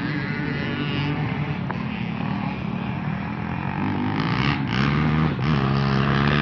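Off-road motocross bike engines revving on the track, rising and falling in pitch as the riders work the throttle, louder near the end as a bike comes closer, with two brief drops in pitch around the gear changes.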